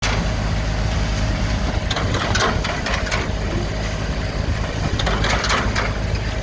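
Garlic harvesting machine at work: an engine drones steadily, with short bursts of clattering noise around two, three and five seconds in as the machine works.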